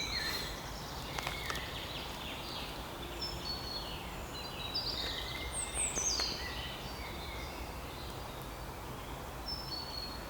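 Outdoor ambience: small birds chirping in short, high notes, several of them falling in pitch, over a low, steady background rumble.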